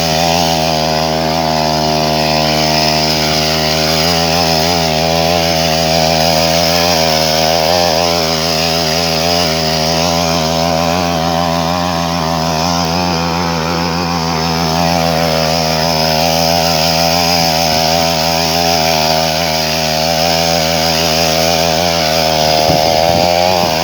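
63cc two-stroke petrol mini tiller engine running at high speed, its buzzing pitch wavering gently up and down, with a brief dip and recovery near the end.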